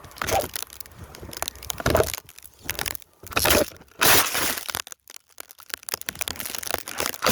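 Snow crunching and crackling in a string of irregular short bursts and clicks, the loudest about four seconds in, as snow is handled and trodden for a throw.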